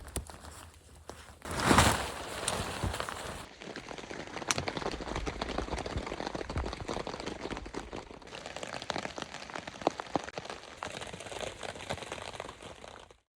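Rain pattering as a steady scatter of small drop ticks, with a louder rustling burst about two seconds in.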